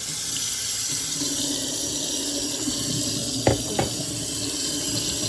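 Water running steadily from a kitchen sink faucet, with two sharp knocks about three and a half seconds in.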